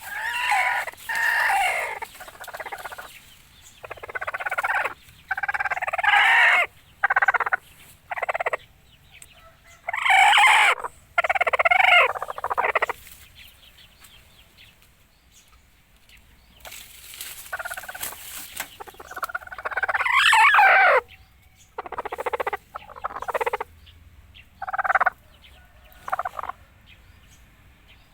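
Chickens calling: repeated rooster crows and clucking calls, each lasting from a fraction of a second to about two seconds, with short pauses between them and a quieter stretch about halfway through.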